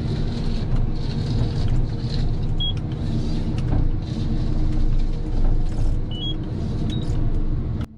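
Heavy forestry machine's diesel engine running steadily under load, with a few brief high-pitched squeaks over it. The sound cuts off suddenly near the end.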